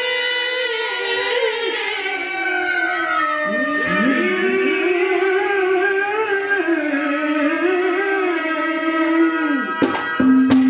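Haryanvi ragni music: a voice holding long, sliding sung notes over a steady drone, with a couple of sharp drum strikes near the end.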